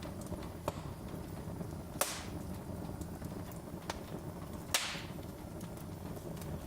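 Wood fire crackling in a fireplace: a low steady rumble of flames with scattered small snaps, and two louder pops with a brief hiss about two seconds in and near five seconds in.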